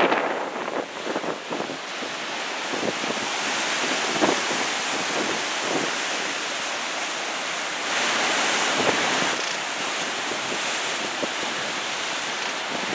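Heavy, storm-driven surf breaking and washing up the beach in a steady roar of water, with wind buffeting the microphone; a louder wave surges in about eight seconds in.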